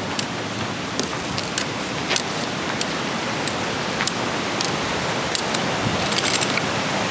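Pyramid Creek's waterfall cascades giving a steady, loud rush of water, with a few light clicks scattered through it.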